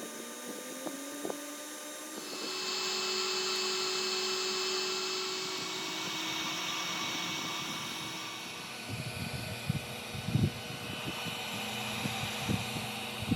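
Laser cutter running: its motors give gliding, rising and falling tones as the head moves, then a steady hiss of air and fan noise sets in about two seconds in. Irregular low knocks and thumps come in the last few seconds.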